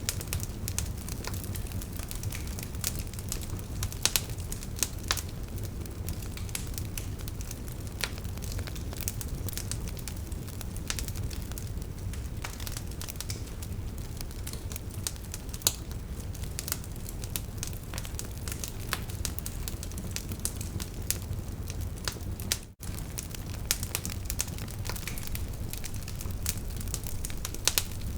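Wood fire burning, with frequent sharp crackles and pops from the logs over a steady low rumble of flame. The sound cuts out for a moment about three-quarters of the way through.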